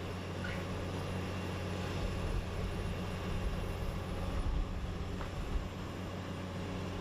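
Heavy machinery of a car-shredding plant running, a steady low drone and rumble with a few faint clicks and knocks.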